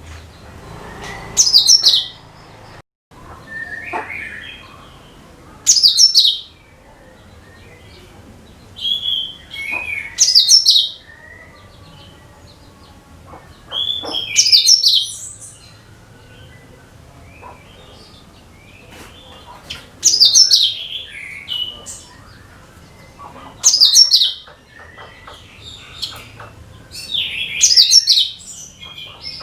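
Cucak kinoi songbird singing: loud, short phrases of quick high notes that fall in pitch, repeated about every four seconds, with softer chirps between them. The song is played as a lure call to draw other birds in.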